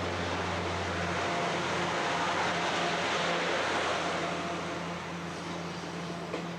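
Steady running noise of a train: a low hum with a rushing hiss over it, and a sharp click near the end.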